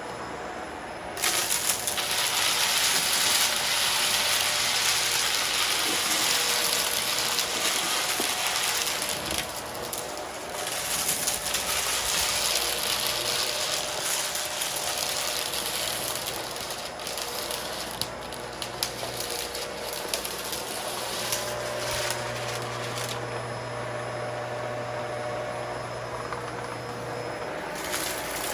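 Shark DuoClean vacuum cleaner running over rugs and sucking up crunchy mess-test debris, with crackles and rattles over the steady motor noise. It gets much louder about a second in and dips briefly near the middle.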